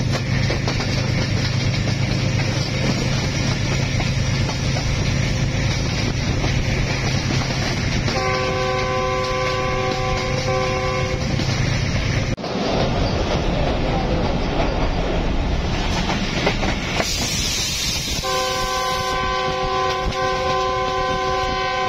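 Passenger train running at speed, heard from an open coach doorway: steady rumble of wheels on the rails and rushing air. The lead GE U20 diesel-electric locomotive's multi-note air horn sounds twice: a blast of about three seconds starting about eight seconds in, and a longer one from about eighteen seconds in, still sounding at the end.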